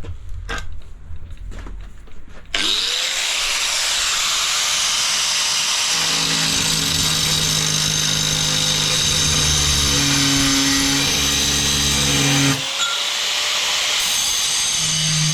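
Electric drill with a paddle mixer stirring tile adhesive in a bucket. After a few knocks, the motor starts suddenly and runs steadily, with a brief dip about twelve seconds in before it carries on.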